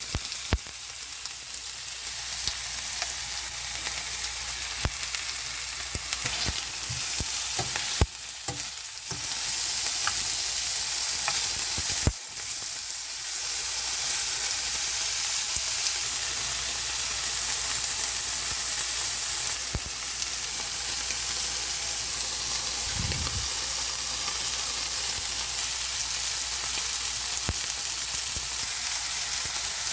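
Slices of pork belly (samgyeopsal) sizzling as they fry, a steady hiss with scattered sharp pops and clicks. The sizzle briefly drops twice in the first half, then runs a little louder and steady.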